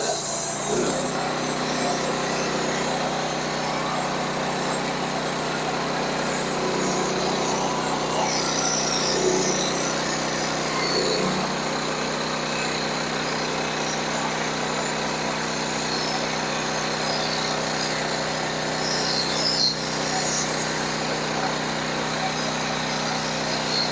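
Sawmill engine running steadily under load while the saw cuts through a log to square it into a cant.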